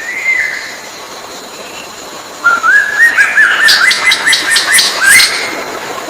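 A bird singing: one short whistled note near the start, then, from a little under halfway in, a fast run of rising whistled notes, about four a second, that stops abruptly after about three seconds.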